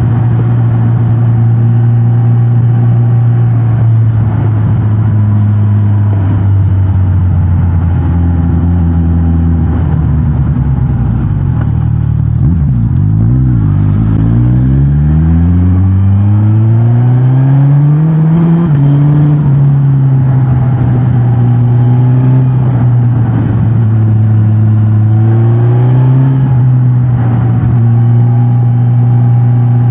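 Suzuki GSX-S 1000 GT's inline-four engine through the stock exhaust while riding. The engine runs steadily at first, then drops back almost to idle near the middle. It then accelerates, its pitch rising for a few seconds before stepping down at a gear change, and it holds steady with another short rise under throttle near the end.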